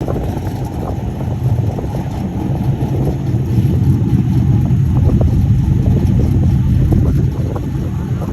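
Car engine and drivetrain running under load during an autocross run: a heavy, steady low rumble with scattered light clicks and knocks.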